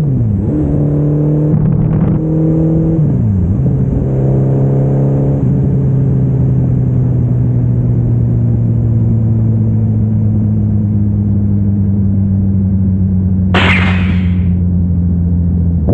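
Suzuki Hayabusa's inline-four engine revving, its pitch stepping up and falling back a few times, then held at a steady pitch. A brief hiss cuts in near the end.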